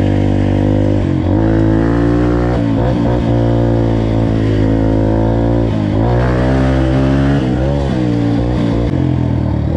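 Dirt bike engine running, its pitch dipping and rising again several times as the throttle is worked.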